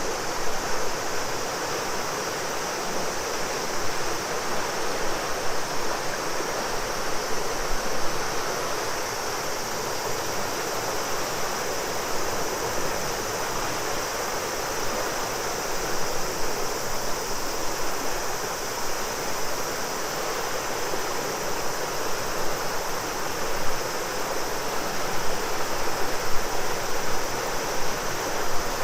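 A large river rushing steadily, with a steady high-pitched chorus of summer cicadas above the water.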